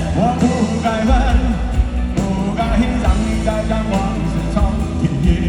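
Live rock band music with singing, a ballad played at concert volume.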